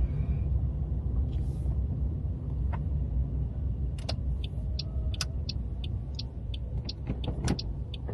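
Low engine and road rumble inside a moving car, with the turn indicator ticking about twice a second from about four seconds in.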